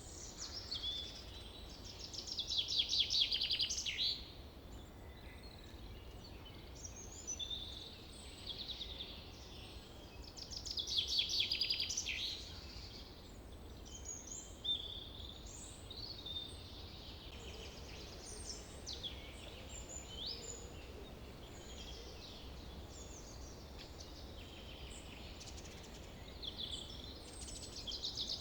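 Small songbirds chirping, with many short high calls throughout and two louder rapid trills, one a couple of seconds in and one about halfway, over a steady low rumble.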